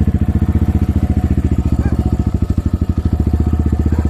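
Kovi Advance 300 enduro motorcycle's four-stroke single-cylinder engine idling with an even, rapid beat, hot after a warm-up ride ahead of an oil change.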